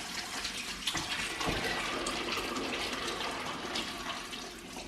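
Water running and splashing steadily as the water in a bucket of curing olives is changed.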